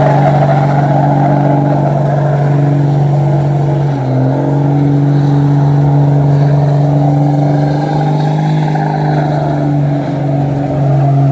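Motor vehicle engine droning at steady revs, with a brief dip in level and pitch about four seconds in before it settles again.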